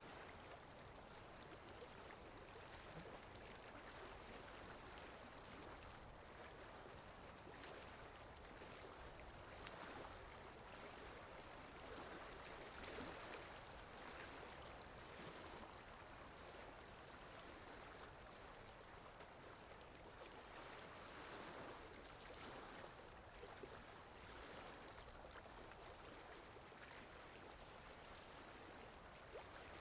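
Steady rain falling, a soft, even hiss that swells gently now and then.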